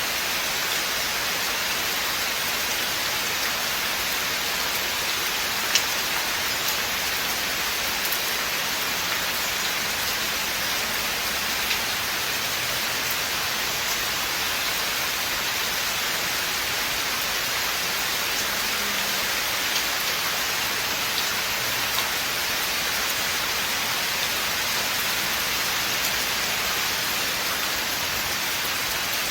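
Steady rain falling through a forest canopy, an even hiss with now and then a single louder drop ticking close by.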